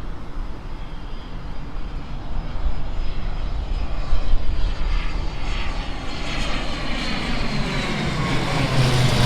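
Cirrus SF50 Vision Jet's single Williams FJ33 turbofan on approach to land, a steady jet rush with a faint high whine that grows louder over the last few seconds as it draws near.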